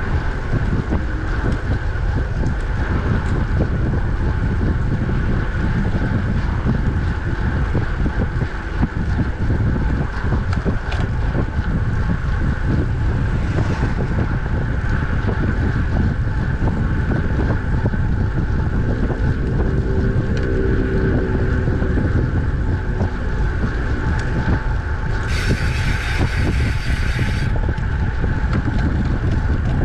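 Wind buffeting the microphone and steady tyre hum from a road bike riding at speed. About 25 s in a high buzz starts suddenly and stops about two seconds later.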